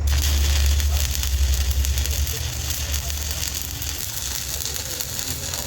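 Electric arc welding: a dense, even crackle that switches on abruptly as the arc strikes and keeps going steadily, over a low steady machine hum.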